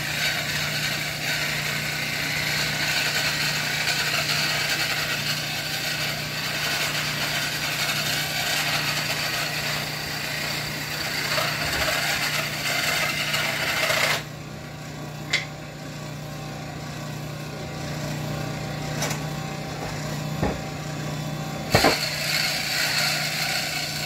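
A power tool running with a steady rough hiss that cuts off suddenly about fourteen seconds in. A low hum carries on, with a few sharp knocks near the end.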